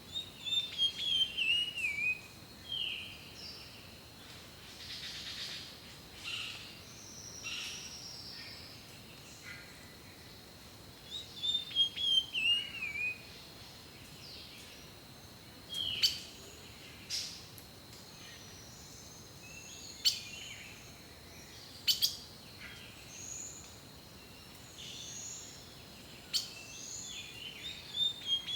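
Wild birds singing: one bird repeats a quick falling phrase of notes three times, about every twelve to fifteen seconds, and others add short sharp chirps and scattered calls between.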